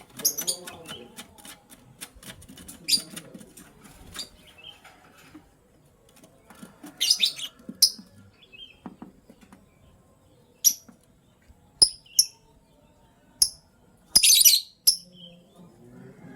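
Lovebirds giving short, sharp, high chirps at irregular intervals, the loudest flurry near the end. Light clicking and rustling fill the first few seconds.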